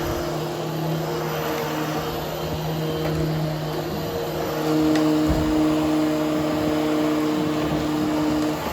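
Hoover Hushtone upright vacuum running steadily over freshly cleaned nylon carpet, grooming the pile. Its motor hum shifts in tone and grows a little louder about halfway through.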